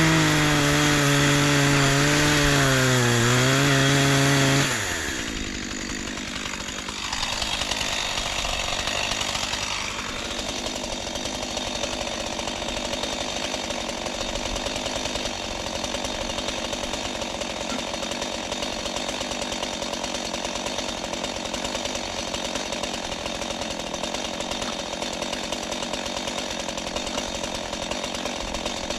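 Two-stroke chainsaw running at full throttle in a cut, its pitch sagging briefly under load. About four and a half seconds in the throttle is released and the saw drops to a steady idle for the rest of the time.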